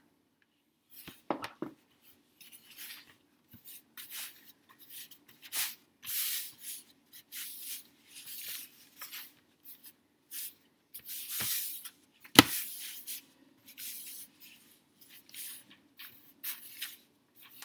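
Hands kneading and rubbing a soft flour-and-hair-conditioner play dough on a mixing tray: irregular scraping and squishing, with a few sharp taps, the loudest about twelve seconds in, over a faint steady low hum.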